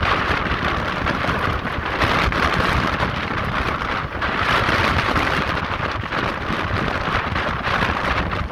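Indian Ocean surf breaking and churning against coastal rocks: a steady rushing wash with a low rumble beneath, swelling a little from time to time.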